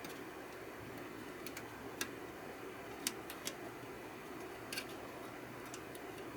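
A handful of light, sharp clicks and taps at irregular moments, the loudest about two and three seconds in, over a steady low hum.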